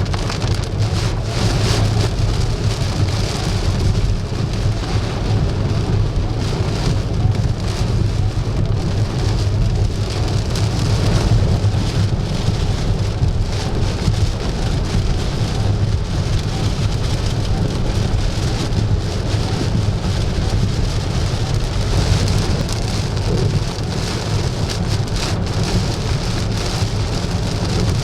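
Heavy rain pouring steadily in a severe thunderstorm, with a deep, constant rumble of strong wind beneath it.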